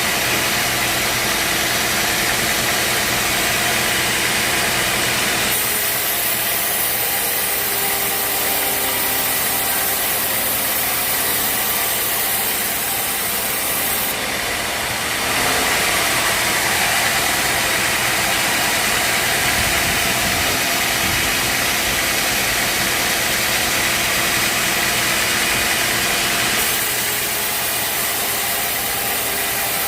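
Band sawmill running, its engine and blade giving a steady, loud machine noise; the high hiss shifts abruptly a few times.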